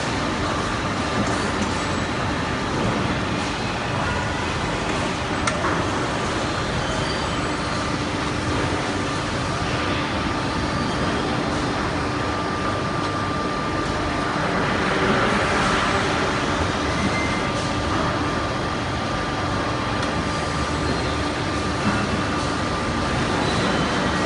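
Steady factory-floor machinery noise from roller conveyors and their shuttle running: a constant rumble and hiss with faint steady hums, no separate knocks standing out.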